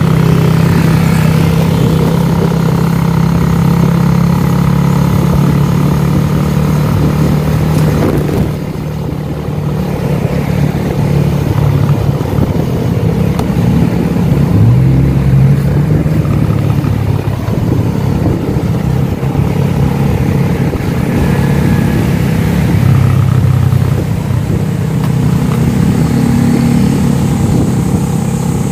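Small motorcycle engine running under load while towing another motorcycle on a rope, with road and wind noise; its pitch dips and rises a few times as the throttle is eased and opened.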